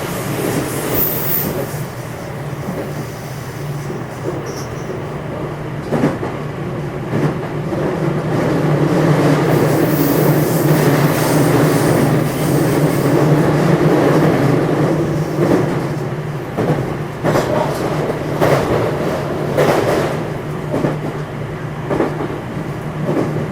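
JR West 227 series EMU motor car running along the line, heard from inside the car: a steady rumble of wheels on rail that swells for several seconds, then rail-joint clicks at about one a second.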